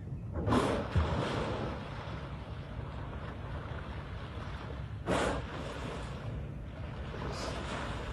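Wind buffeting the microphone over open water, a steady low rumble, with two loud rushing bursts, one near the start and one about five seconds in.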